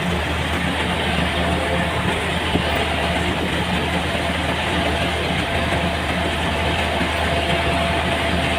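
Farm machine engine running steadily: a constant low drone with a faint steady whine above it.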